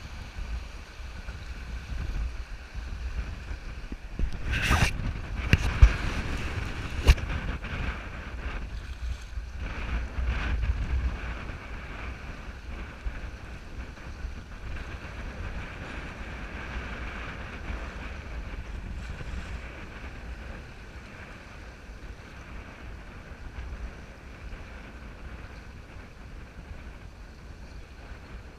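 Whitewater rushing past a raft, with wind rumbling on the microphone. A few sharp knocks come about five to seven seconds in, and the rush gradually quietens in the last third.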